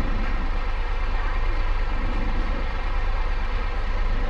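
Motorcycle engine running steadily, an even low rumble with no change in pitch.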